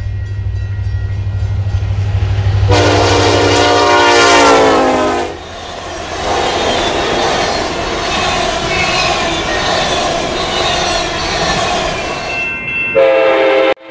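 A train passing. Its horn sounds for about two and a half seconds and drops in pitch as it goes by, then the cars rumble and clatter past on the rails. A second short horn blast sounds near the end and cuts off suddenly.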